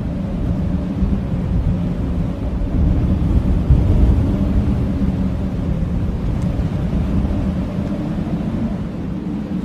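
Blizzard wind blowing hard: a steady deep rumble with a faint wavering howl over it.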